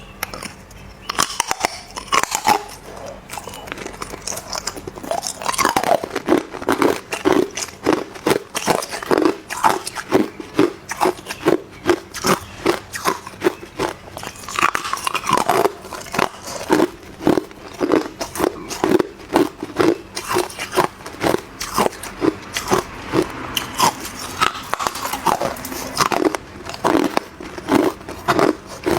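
Hard clear ice being bitten and crunched between the teeth, in quick irregular crunches, about two or three a second.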